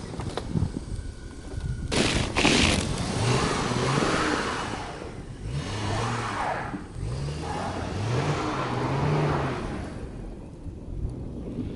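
A vehicle engine revving up and down several times in a row, over loud gusting noise of wind and traffic.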